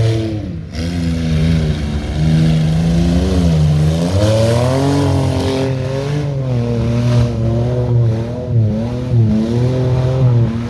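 Competition truck's engine revving hard on an obstacle-course run, its pitch rising and falling as the throttle is worked, with several short dips where the revs drop and pick up again.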